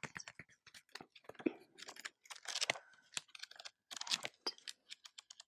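Close-miked ASMR dry mouth sounds: a rapid, irregular run of tongue clicks and lip smacks.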